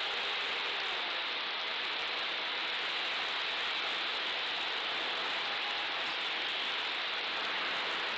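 Steady rushing hiss of airflow and propeller from an FPV model airplane in flight, picked up by its onboard camera, with a faint steady motor whine under it.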